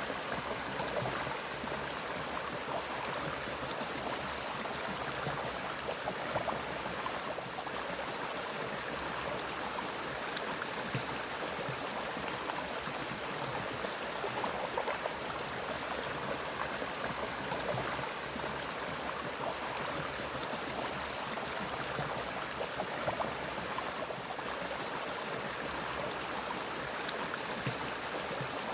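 Mountain stream flowing in a steady, even rush of water. A constant high-pitched whine runs over it.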